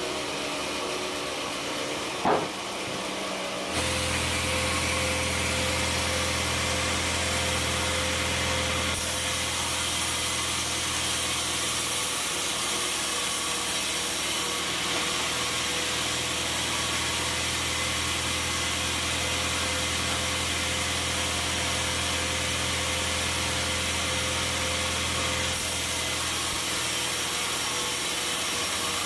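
A sawmill saw running and cutting through a large log, a steady mechanical drone that gets louder and deeper about four seconds in. A brief sharp sound with a falling pitch comes just before that.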